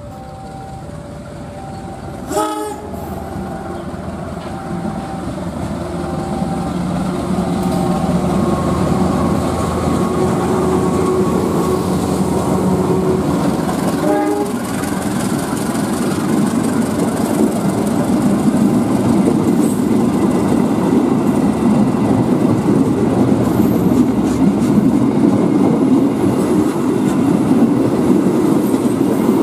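KAI diesel-hauled passenger train approaching and passing close by. It gives a short horn blast about two seconds in and another as the locomotive passes about halfway through, while a repeating two-note beep sounds in the first few seconds. The engine's drone builds, then the passenger coaches roll past with wheels clattering over the rail joints, growing louder toward the end.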